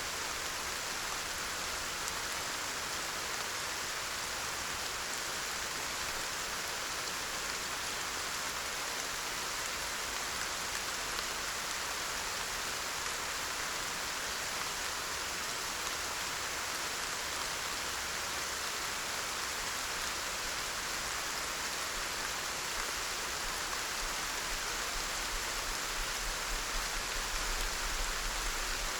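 Steady rain: an even, constant hiss of falling rain with no breaks. A faint low rumble swells slightly near the end.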